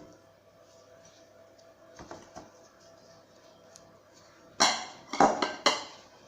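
Dishes and kitchen utensils clinking and clattering: a couple of light clicks, then a quick run of louder clanks near the end.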